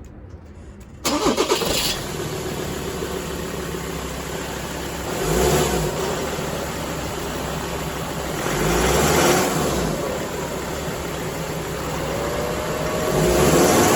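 A 2018 Ford Transit 250 van's engine cranks and catches about a second in, then idles steadily. It is revved briefly three times, rising and falling each time.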